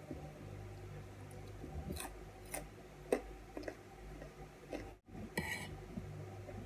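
Chewing raw vegetables, with scattered small clicks and crunches, then a brief scrape of a metal fork on the plate about five and a half seconds in, over a low steady hum.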